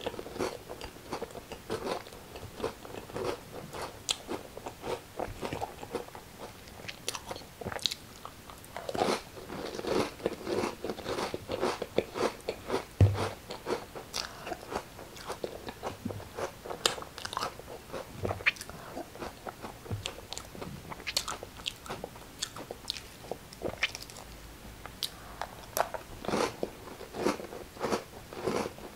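A person biting and chewing crackers close to the microphone: a steady run of crisp crunches. The loudest bite comes about 13 seconds in.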